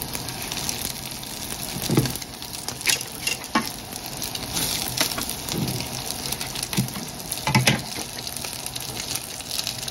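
Gyoza sizzling in oil in a non-stick frying pan whose heat has just been switched off, with occasional clicks and scrapes as chopsticks and a spatula move the dumplings.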